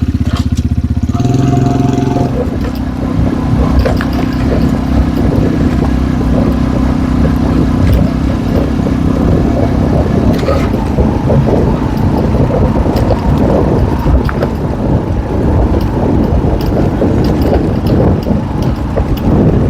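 Small enduro motorcycle engine pulling away from idle about a second in, then running under load as the bike rides on, with rough road and wind noise.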